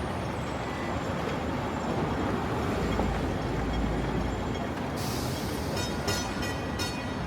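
Hong Kong double-decker tram running on its tracks: a steady rumble that swells about three seconds in, then from about five seconds a hiss with a quick run of rattling clicks.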